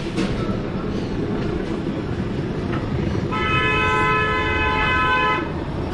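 A horn sounds one steady held note for about two seconds, starting about three seconds in, over a continuous low rumble.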